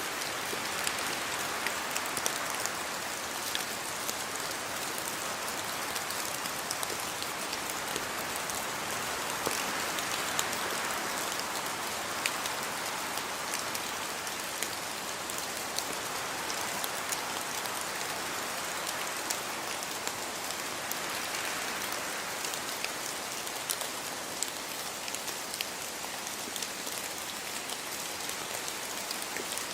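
Steady rainfall, a continuous even hiss with many individual drops ticking on a surface throughout.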